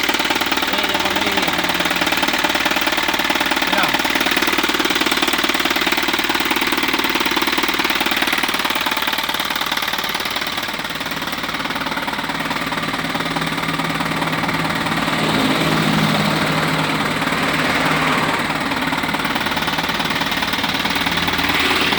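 Isuzu truck's diesel engine running steadily; about ten seconds in it eases a little and a steady low hum comes up.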